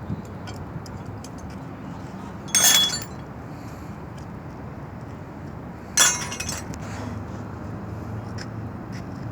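Two loud metallic clanks with a brief jangling clatter, about three and a half seconds apart, over a low steady rumble, with a few small ticks between.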